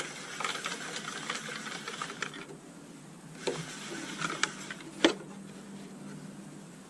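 Metal tool clicking and scraping against a motorcycle fork tube while prying out the retaining clip that holds the fork oil seal. It comes in two bursts of rapid small clicks, with one sharp metallic click about five seconds in.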